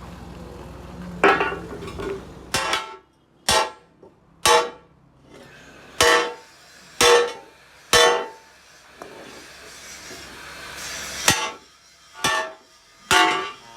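Hammer blows on metal, about ten strikes at irregular intervals of roughly a second, each one ringing briefly. A low machine hum runs under the first few seconds and cuts off.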